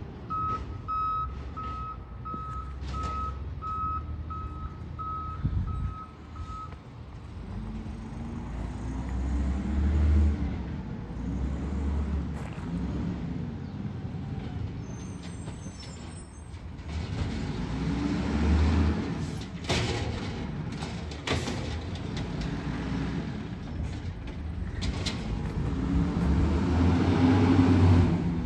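Garbage truck backup alarm beeping steadily, about one and a half beeps a second, for the first six seconds or so. Then the truck's diesel engine revs up and falls back three times, with a few sharp metal clanks midway.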